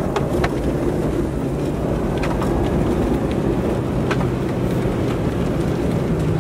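Steady low rumble of a vehicle engine running, mixed with wind noise, with a few scattered faint ticks.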